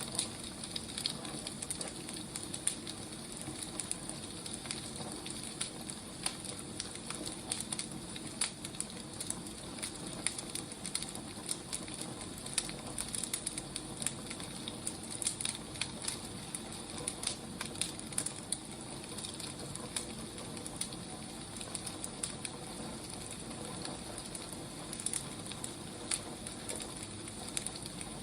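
Firewood burning: a steady low hiss with frequent irregular sharp crackles and pops.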